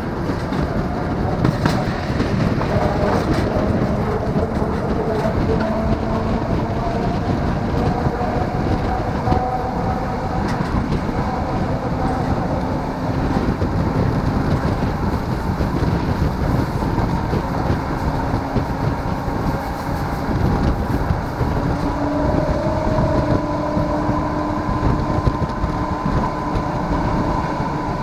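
Tram running along its line: a steady rumble of wheels on rails, with a whine from the drive that drifts slowly up and down in pitch as the speed changes.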